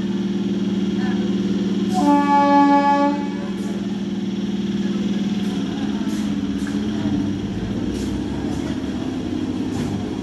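Electric local train (EMU) at a platform: a steady electric hum, with a horn sounding for about a second some two seconds in. From about six seconds the train pulls away, its motors whining up in pitch, with clicks from the wheels over the rail joints.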